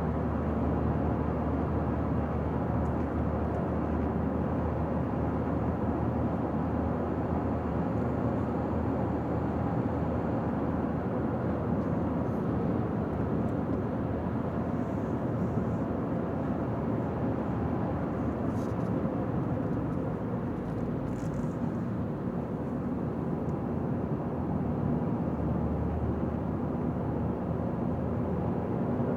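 Steady road and engine noise of a car cruising on a highway, an even rush with no change in speed.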